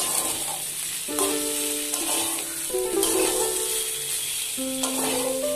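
Potato, radish and eggplant chunks sizzling in oil in an aluminium kadai as a spatula stirs them. The ground spices are being fried down dry, with no water added yet. Soft instrumental background music with held notes plays over it.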